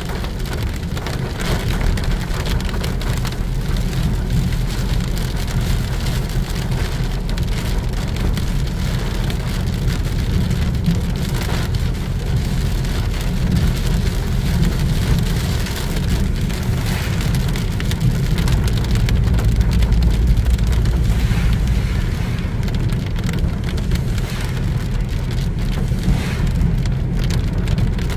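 Heavy rain falling steadily, with a continuous low rumble underneath that grows louder about twenty seconds in.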